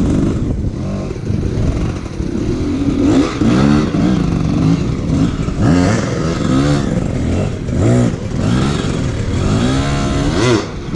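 Hard enduro dirt bike engine revved in short, repeated throttle bursts, its pitch rising and falling with each one.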